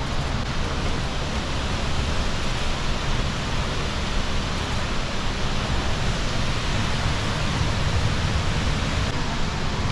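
Waterfall rushing: a steady, even roar of falling water with a deep rumble underneath.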